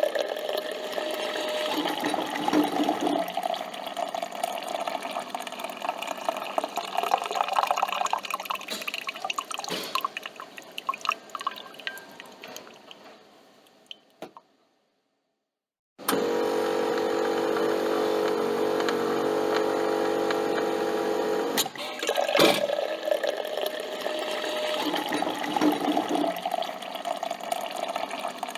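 Coffee machine brewing: coffee trickling and dripping into the cup, fading away to silence about halfway through. The machine then runs with a steady hum for about six seconds, a click follows, and the trickle of brewing starts again.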